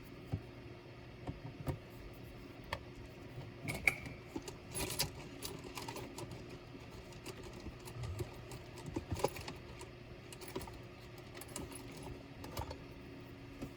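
Scattered small clicks, taps and short metallic rattles of laptop parts and tools being handled, with a busier cluster about four to five seconds in and again around nine seconds. A steady low hum runs underneath.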